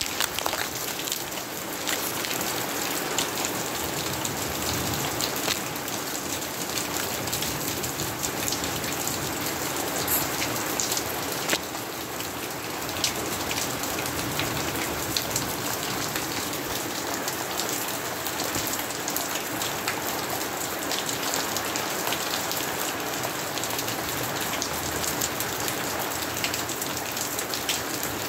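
Steady rain falling, with frequent sharp clicks of drops striking a surface.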